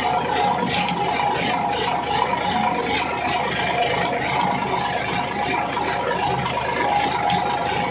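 Sonalika 55 RX tractor running steadily while its loaded trolley rattles.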